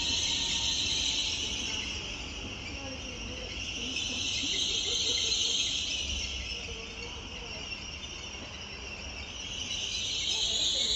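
Passenger train in the station: a high hiss that swells and fades three times over a low rumble.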